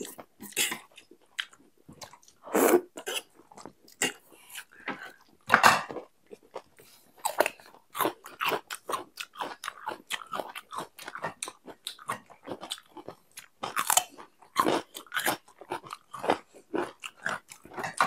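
Chewing and crisp crunching bites of raw salad vegetables such as cucumber and lettuce, a quick irregular run of mouth clicks with a few louder crunches.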